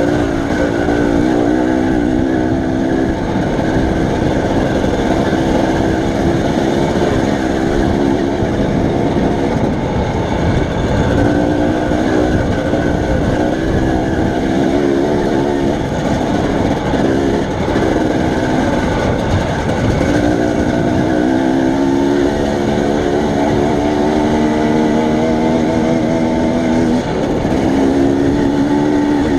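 A vehicle engine running under way, its note rising and falling and breaking off every few seconds as it changes speed and gear, over a steady loud rush of wind and road noise.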